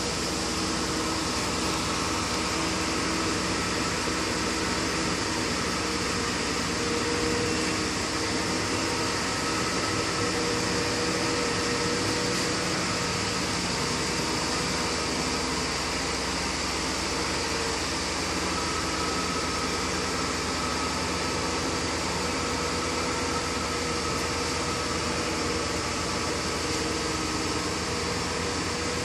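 Steady mechanical hum and whir at an even level, with a few faint steady tones in it and no sudden sounds.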